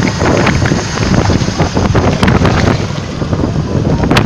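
Motorcycle engines running, heavily buffeted by wind noise on the microphone.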